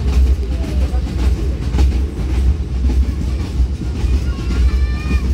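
Passenger train running along the track: a steady low rumble, with a few sharp clicks of the wheels over rail joints in the first couple of seconds.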